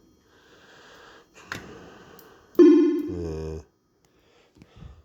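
PCP Club Variety fruit machine's electronic sound effect: a loud bleep about two and a half seconds in, then a falling run of tones lasting about a second that cuts off suddenly. A sharp click comes just before it, and a couple of soft knocks come near the end.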